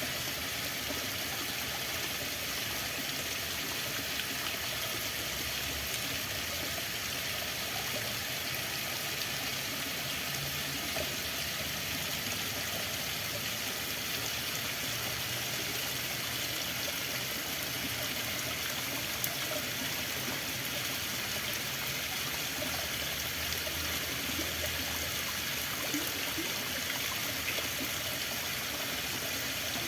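Running water flowing steadily: an unbroken, even hiss.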